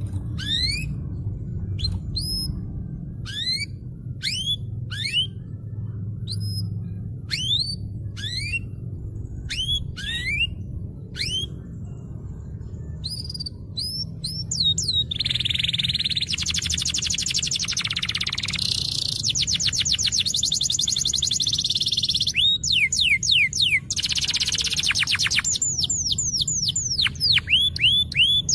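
Canary singing: for about the first half, a string of separate rising whistled notes, a little more than one a second; then fast rolling trills broken by bursts of quick rising sweeps. A steady low hum runs underneath.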